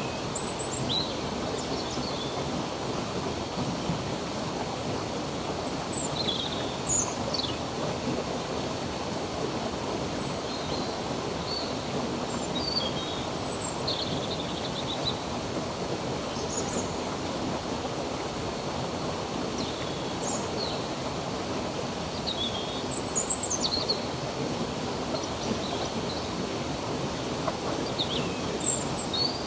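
Stream water running steadily, with small birds chirping every few seconds in short high calls and whistles.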